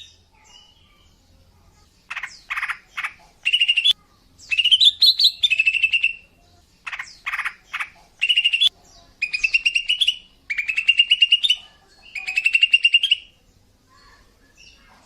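Female green leafbird (cucak ijo) calling, the call used to lure males: after about two seconds of quiet, bursts of quick chattering notes alternate with trilled phrases that rise in pitch, repeated several times, then it falls quiet near the end.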